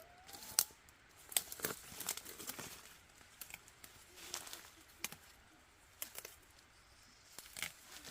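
Leaves rustling and stems snapping as wild vegetables are picked by hand: irregular crisp snaps and crackles.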